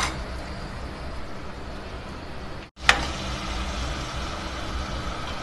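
Beef keema frying in oil in a steel pot over a gas burner: a steady sizzle over a low rumble, at the bhunai stage where the water has cooked off and the oil separates. A sharp clink of the spoon on the pot comes right after the sound cuts out for an instant about halfway through.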